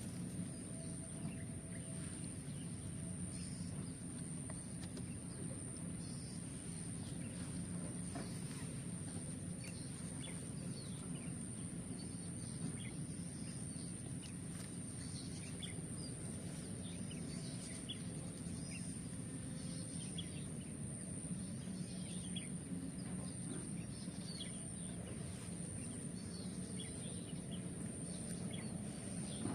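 Outdoor ambience: a steady high-pitched whine and a low rumble, with scattered short bird chirps throughout.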